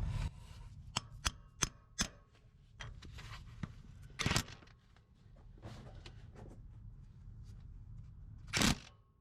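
A few sharp metal clicks, then two short bursts from an impact wrench driving a bolt biter extractor socket onto a broken exhaust manifold bolt, trying to bite and turn it.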